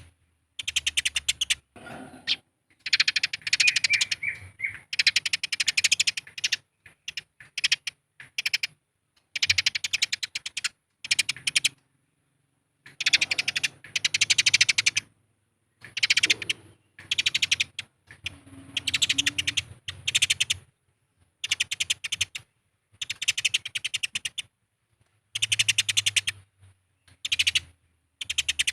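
Eurasian tree sparrows in a squabble, chattering in rapid, harsh bouts of a second or two with short pauses between them.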